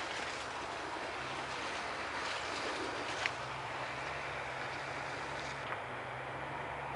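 Steady low engine hum of a heavy machine running, under an even outdoor hiss, with a faint tick or two.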